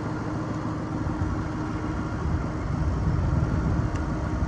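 An engine idling steadily with a low rumble that grows a little heavier about three seconds in, and a faint click near the end.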